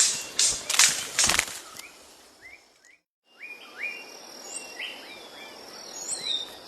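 Birds calling in a tropical forest with short hooked chirps and higher whistles over an insect bed. In the first second and a half comes a quick series of sharp swishes, about three a second, then the sound briefly drops out before the calls resume.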